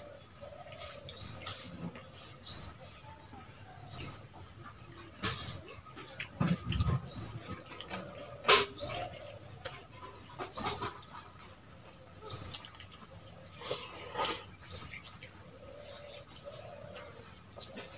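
A small bird chirping over and over, one short high chirp about every second and a half. Between the chirps are the clicks and scrapes of hands eating rice from steel bowls, with one sharp clink about eight and a half seconds in.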